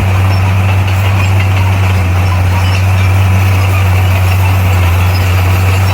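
Bulldozer's diesel engine running steadily with a deep, constant drone.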